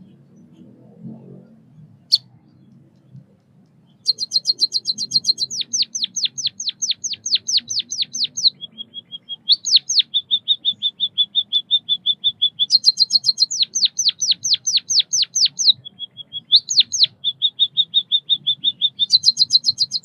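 White-headed munia singing. About four seconds in, a repeating song phrase begins: a fast rattle of high notes, a run of downward-sweeping notes, then a steady trill. The phrase comes twice and starts again near the end, with a single click about two seconds in.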